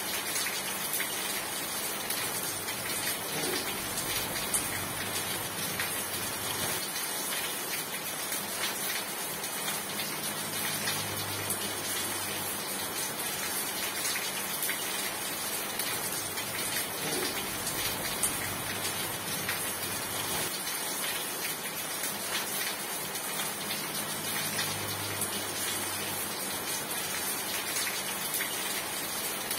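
Steady rain falling and pattering on a surface, an even hiss thick with fine drop ticks.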